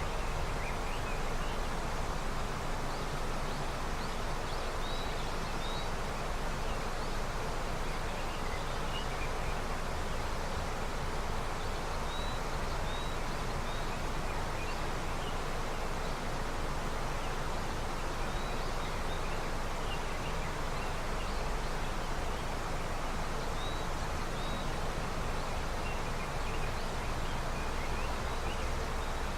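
River water flowing steadily in early snowmelt, an even rushing with no breaks. Faint short high chirps come now and then over it.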